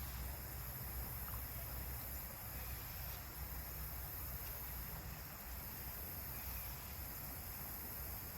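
Steady outdoor background noise of a high, fast-running creek: an even rushing hiss with a low rumble underneath and no distinct events.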